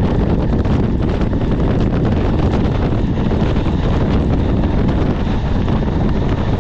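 Strong wind buffeting the microphone from a moving train, over the steady running rumble of the train's wheels on the track.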